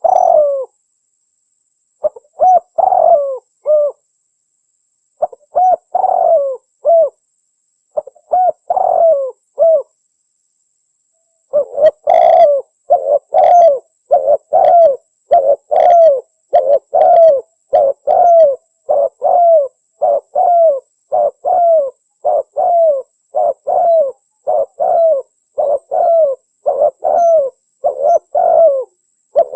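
Spotted dove (tekukur) cooing, a recording of the calls used to lure wild doves. In the first ten seconds it gives a few multi-note phrases about three seconds apart. After a short pause it switches to a fast, even run of single coos, about one a second.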